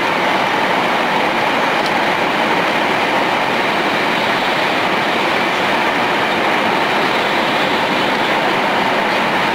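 Tohoku Shinkansen 'Hayate' train running between stations: a steady, even rushing noise that holds at one level throughout.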